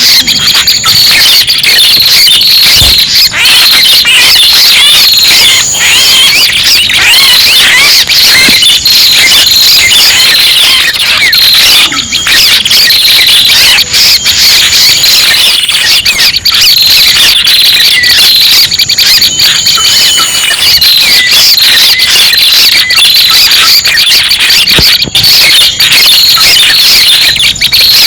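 Bird-trapping lure recording of the red-headed prenjak's song: rapid, high chirps and trills packed closely together, loud and unbroken. A thin, high steady tone comes and goes above them.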